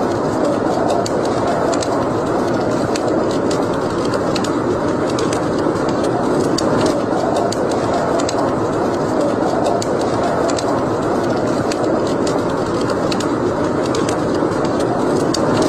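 Wood fire in a fireplace crackling: frequent sharp, irregular pops and snaps over a steady rushing noise.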